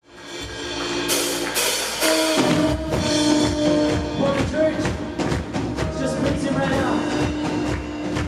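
Live church worship band playing, fading in at the start. A few cymbal swells come about a second in, then drums and bass join with a steady beat under held chords.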